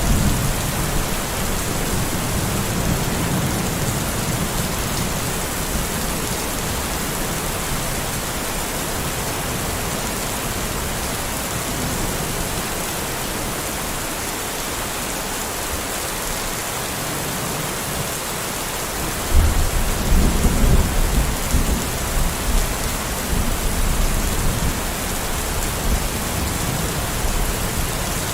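Steady rain falling, with a low rumble of thunder early on and a louder thunderclap breaking about two-thirds of the way through that rolls on for several seconds.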